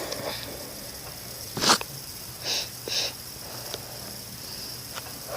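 A person sniffing close to the microphone: one sharp sniff about a second and a half in, then two shorter, softer ones half a second apart.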